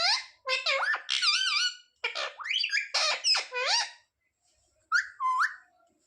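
Pet parrot calling in several bursts of whistled, warbling squawks with sliding pitch, pausing briefly about four seconds in.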